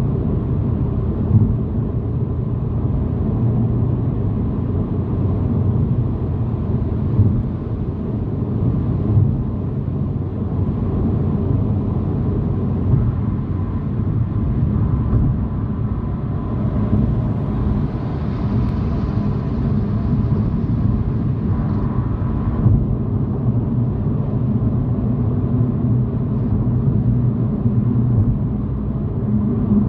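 Car being driven at road speed: a steady low rumble of road and engine noise heard from inside the cabin. A brighter hiss swells for several seconds past the middle and then cuts off.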